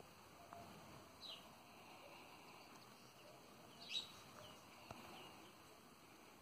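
Near silence with a few faint, short bird chirps; the clearest comes about four seconds in. There are also a couple of soft clicks.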